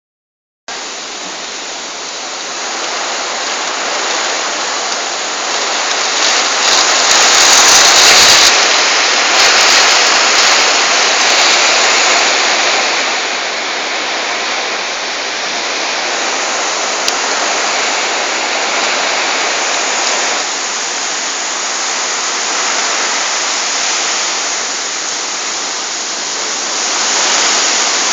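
Storm wind blowing hard: a continuous rushing noise that swells loudest about eight seconds in, eases off, then rises again near the end.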